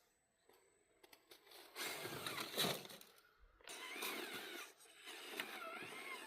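Electric motor and gearbox of an RC scale trail truck whining as it drives. The pitch rises and falls with the throttle, starting about two seconds in, over the noise of the tyres or tracks on the ground.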